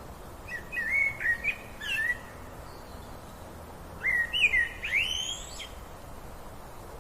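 A songbird singing two short phrases of quick, gliding whistled chirps, one about half a second in and another about four seconds in, over a steady outdoor hiss.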